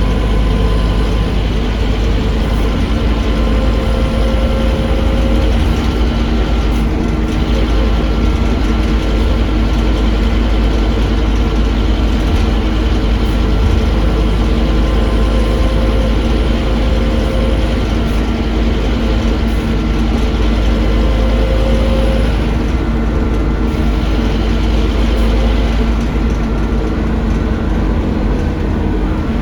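Scania K310UA articulated bus heard on board, its Scania DC9 engine running with a steady, deep rumble, with a few brief rising tones over it.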